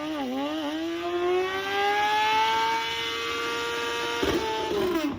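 A high-revving engine. Its pitch dips twice in the first second, climbs steadily to a high pitch, holds there, then drops near the end.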